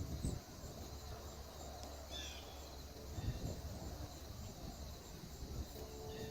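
A bird's short chirps, a quick falling series about two seconds in, over a faint low hum.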